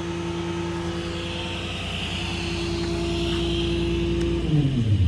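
Paccar PX7 diesel of a Kenworth T270 work truck running steadily, then shut off remotely about four and a half seconds in, its pitch falling as the engine winds down.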